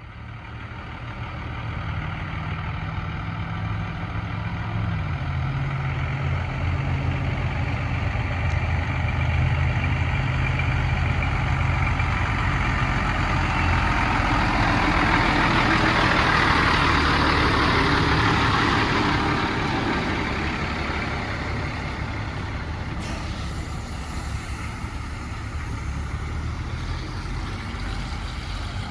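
A heavy truck's engine running as it goes by, its note stepping down once about five seconds in, while road and tyre noise swells to a peak about midway and then fades.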